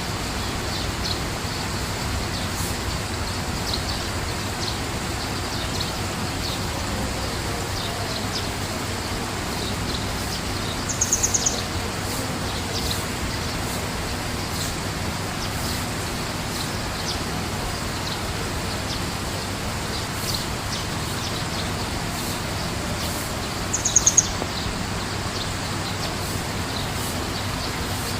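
Small birds chirping faintly and often, with two brief, rapid high trills, one about eleven seconds in and one near twenty-four seconds, over a steady rushing noise.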